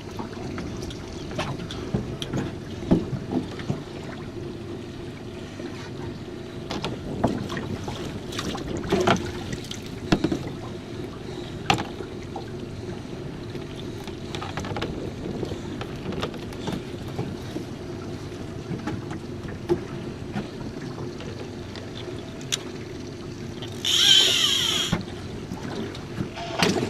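Small jon boat sounds while a hooked fish is being fought: a steady hum runs under many short knocks and clicks. A louder, brighter burst of about a second comes near the end.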